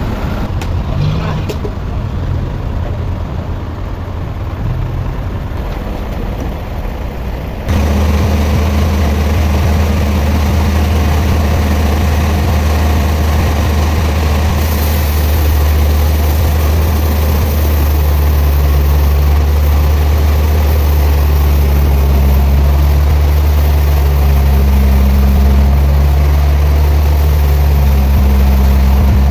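Heavy machinery engine running steadily, with a deep drone that jumps suddenly louder about eight seconds in and then holds.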